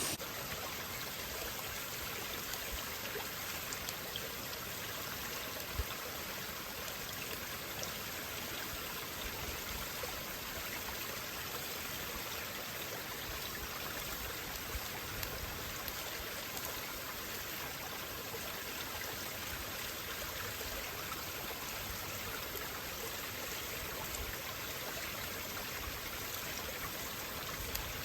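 Campfire burning, with a few faint crackles and one sharper pop about six seconds in, over a steady rushing hiss.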